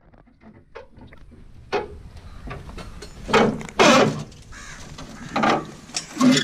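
A crow cawing, a few loud harsh caws in the second half, with faint scattered knocks before them.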